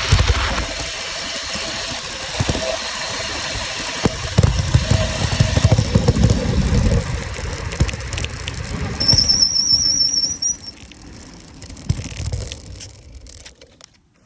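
Modded Razor MX350 electric dirt bike at full throttle on a top-speed run, about 28 mph: a steady rush of wind buffeting the microphone over the faint hum of the electric motor and chain. About nine seconds in there is a brief high wavering squeal, and the noise then dies down as the bike slows.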